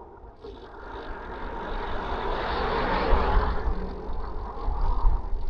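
A motor vehicle passing close by on the road, its tyre and engine noise swelling to a peak about three seconds in and then fading, over wind rumbling on the microphone of a moving bicycle.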